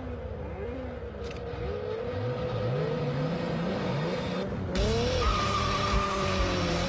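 Sports car engine revving in repeated rising sweeps as the car accelerates. About five seconds in, a loud tyre squeal and skid noise join it as the car drifts.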